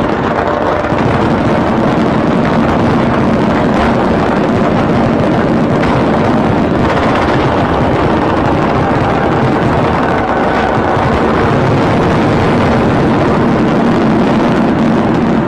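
A dense, unbroken fireworks barrage, many bursts and crackles merging into one steady, loud rumble with no separate bangs standing out.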